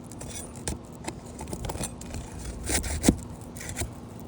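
Steel flat bar scraping and prying under asphalt shingles, with scattered clicks and gritty scrapes and one louder knock about three seconds in.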